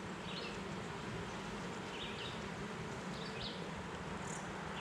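Honeybees buzzing steadily around an open hive, with a few faint high chirps over the hum.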